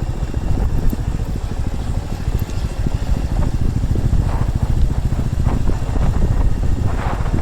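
Motorcycle engine running steadily as the bike is ridden, a continuous low drone.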